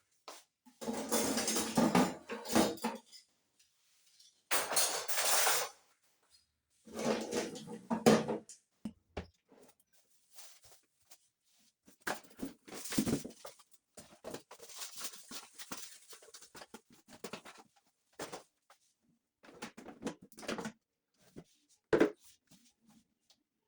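Household objects being handled, clattering and knocking in several irregular bursts, with a single sharp knock near the end.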